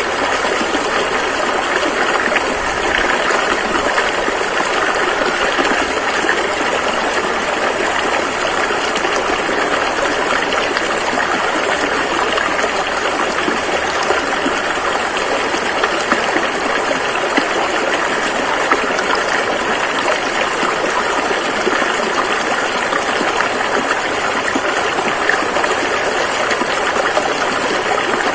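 Rushing river water flowing over rapids, a steady full roar of noise without letup.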